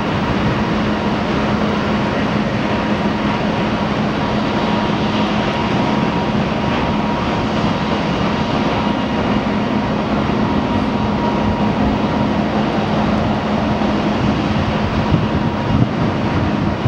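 Turbofan engines of the Mitsubishi MRJ regional jet (Pratt & Whitney PW1200G geared turbofans) running steadily: a continuous loud rush with a steady low hum and a fainter high whine held beneath it.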